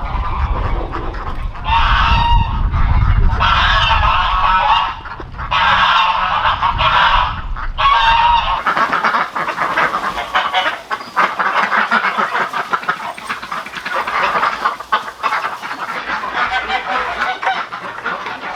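A flock of domestic geese honking loudly in repeated bursts, with ducks calling among them. After about eight and a half seconds the calling turns into a denser, unbroken chatter of many birds.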